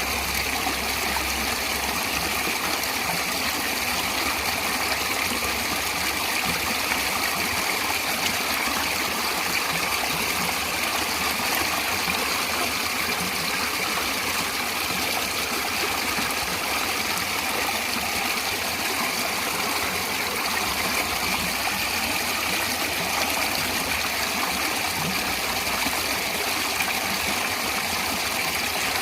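Natural stream water flowing steadily, an even rushing and trickling with no breaks.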